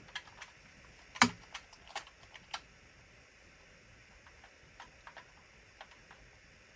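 Scattered clicks and taps of hard plastic being handled, with one louder knock about a second in and fainter ticks later on.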